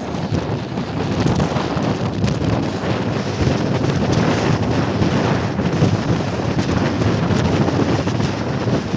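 Wind buffeting the microphone on a moving train, over the steady low rumble of the train running.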